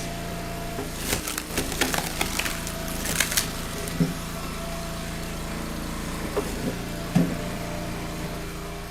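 A hydraulic log splitter's engine runs steadily while a firewood round splits with a run of sharp cracking and snapping from about one to three and a half seconds in. A few dull thumps of split pieces follow, the loudest near the end.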